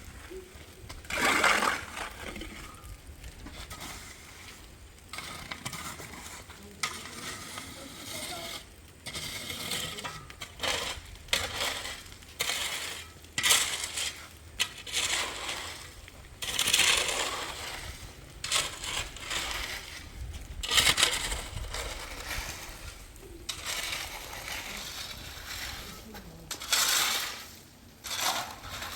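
Irregular clattering and scraping of hard objects, in short bursts of a second or less, loudest about a second in and twice more later on.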